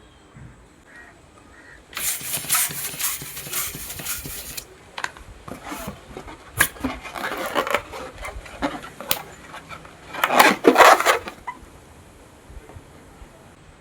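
Small rubber balloons being handled and popped: a stretch of rubber rubbing and crackling with sharp pops, then a few separate pops, and the loudest burst of rubbing and popping about ten seconds in.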